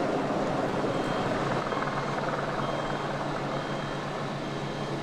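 Steady heavy-vehicle engine rumble and outdoor noise, with a faint reversing alarm beeping roughly once a second.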